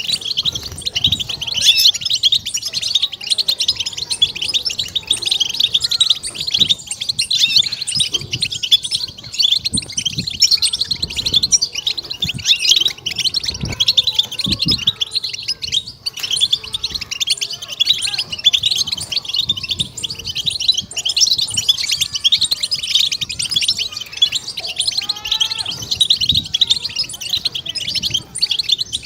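European goldfinch song: a dense, unbroken stream of rapid high twittering chatter, the 'batbata' used to stimulate and excite goldfinches.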